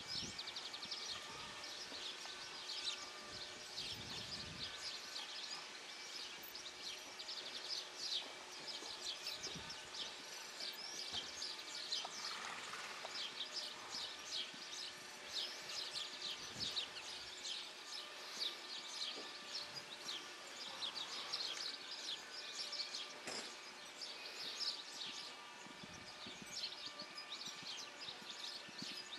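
Birds chirping and singing continuously over steady outdoor background noise.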